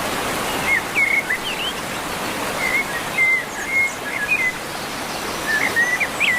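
A songbird singing short, twisting whistled phrases again and again over a steady background hiss.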